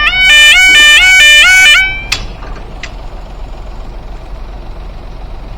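Level crossing warning alarm sounding a loud two-tone yelp that flips between two pitches a few times a second, then cuts off about two seconds in. Two clicks follow, then only a steady low background noise.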